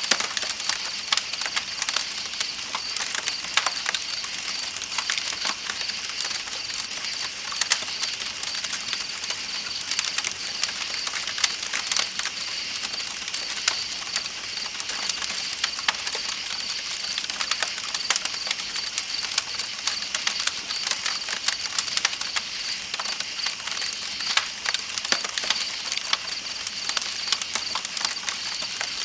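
Campfire crackling with many irregular sharp pops, over a steady high-pitched chirping of night insects and the even rush of flowing river water.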